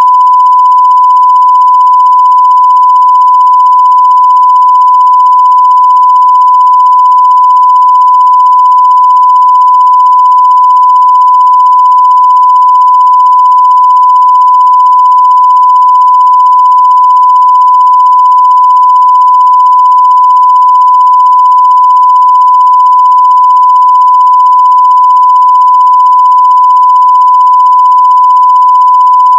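A 1 kHz line-up test tone, the reference tone played with SMPTE colour bars for setting audio levels. It is one loud, unwavering pitch that stops abruptly near the end.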